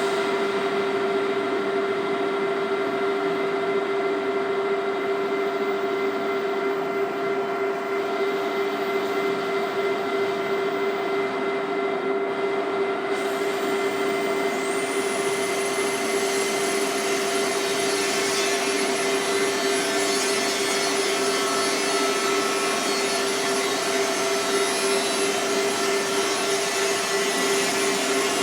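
CK6156 CNC metal lathe running: a steady machine hum with a constant tone. About halfway through, a faint high whine slides up and then holds.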